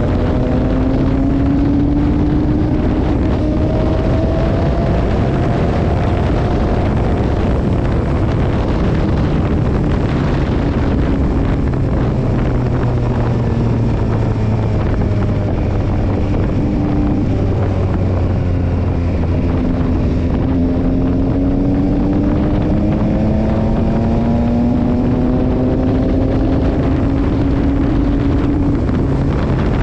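Yamaha Tracer 9 GT's 890 cc inline-three engine running under way, its note climbing and falling with the throttle and the gears. Steady wind rush on the microphone runs under it.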